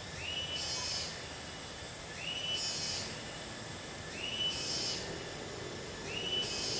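A bird's call repeating about every two seconds, four times: a rising whistle that levels off, followed by a short hissy note. Steady rushing of the river runs underneath.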